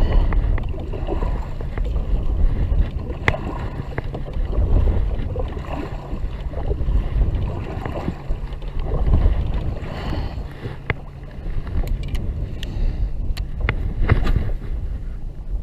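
Strong wind buffeting the microphone, a gusting low rumble that swells and eases, with a few sharp clicks and knocks from the kayak and fishing gear, most of them in the second half.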